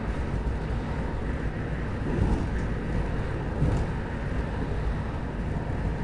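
Stockholm commuter rail X10 electric multiple unit running along the line: a steady low rumble of wheels and running gear, with a couple of brief knocks midway.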